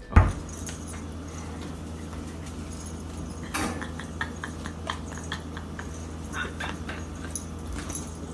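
A household pet animal making small noises over a steady low hum, with scattered short clicks and taps; a loud thump right at the start.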